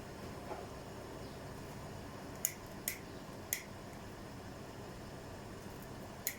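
Bosch WAT286V0 EcoSilence Drive washing machine running a 90 °C boil wash, with a steady low hum. Sharp ticks stand out above it, three in quick succession midway and another near the end.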